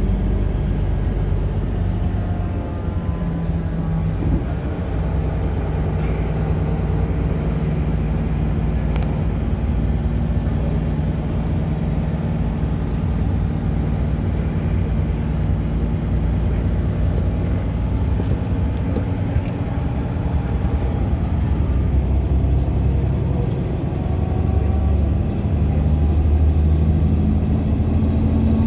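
Bus engine running under way, heard from inside the passenger cabin: a steady low drone whose pitch steps up and down a few times and rises near the end.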